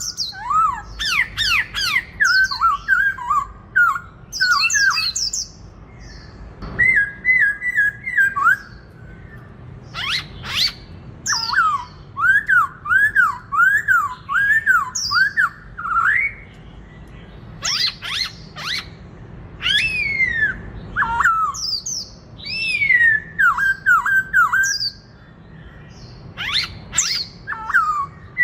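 Black-throated laughingthrush (khướu bạc má) in fierce fighting song: loud phrases of repeated slurred whistles, each run lasting a few seconds, mixed with quick steep sweeps and short pauses between phrases.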